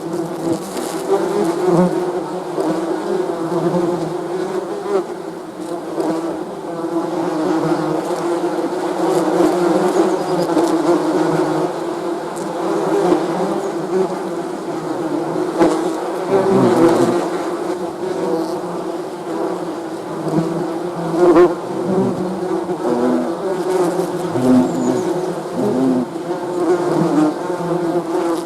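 Many bees buzzing together, a dense steady drone of overlapping wavering tones.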